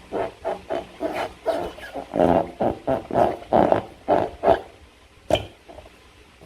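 Slime squelching as it is squeezed and worked by hand: a run of short wet squelches, about two or three a second, then one sharp click a little after five seconds in.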